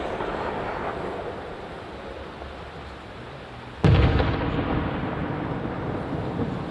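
Aerial firework shell bursting with a deep boom about four seconds in, followed by a rolling echo that slowly dies away. Before it, the rumble of an earlier burst fades out.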